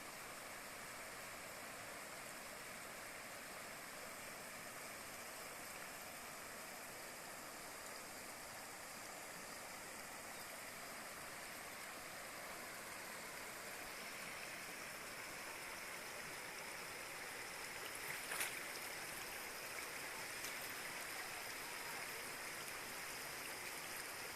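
Rain-swollen creek rushing steadily, an even hiss of flowing water that grows slightly louder in the second half, with one brief click about eighteen seconds in.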